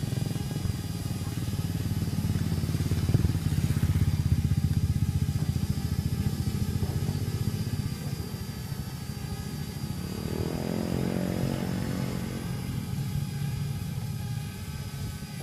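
Parrot Bebop 2 quadcopter drone's propellers buzzing in flight, louder about three to five seconds in, with a brief rise and fall in pitch about ten seconds in.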